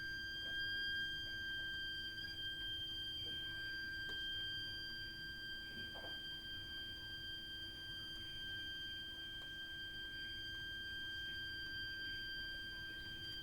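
Continuous high-pitched whistling shriek from a heat interface unit (HIU) and its heating pipework: one steady, unchanging pitch with fainter overtones above it and a weaker low hum beneath. It is an abnormal fault noise in the heating system.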